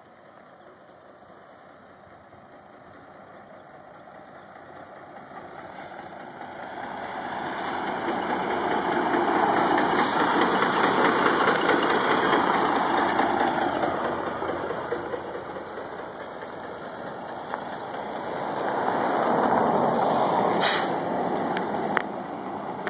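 A truck or other heavy road vehicle going by, its noise building up to a loud peak, fading, then swelling once more near the end. There are a couple of sharp clicks along the way.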